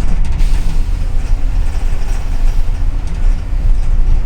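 Steady low engine and road rumble heard inside a double-decker city bus on the move.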